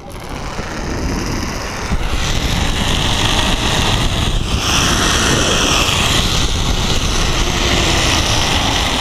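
Zipline trolley rolling along the steel cable: a loud, steady whirring rush that builds over the first couple of seconds as the rider picks up speed, with wind on the microphone.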